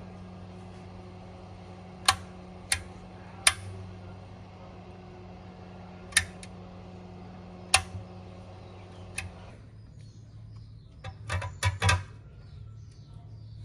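A steady low electrical hum with a series of sharp clicks or taps; part of the hum cuts off a little after nine seconds in, and a quick run of clicks follows near the end.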